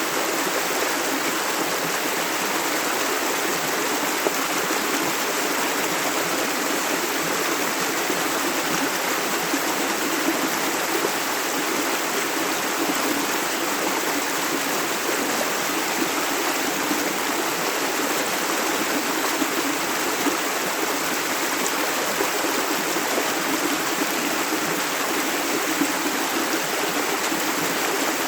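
Flowing river water rushing over stones, a steady, even sound with no breaks.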